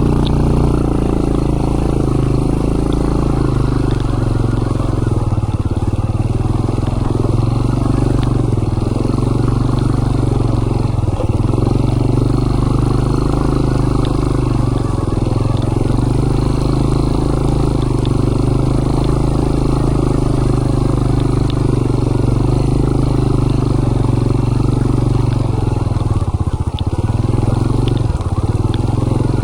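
Motorbike engine running steadily while riding along, its pitch dipping briefly near the end as it slows.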